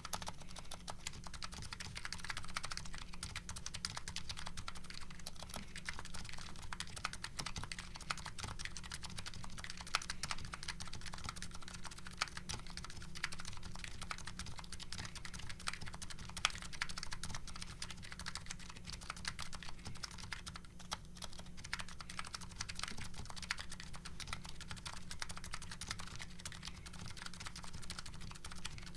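Continuous fast typing on a custom keyboard with MetaKeebs MetaPulse electro-capacitive switches and CRP R5 Korean keycaps. Keystrokes clack in a dense, steady stream with no pauses.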